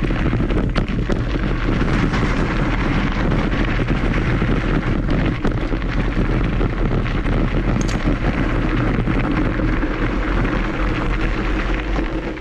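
Wind buffeting the microphone of a moving camera on a bike ride: a loud, steady rumbling rush, with small scattered knocks and rattles from the trail.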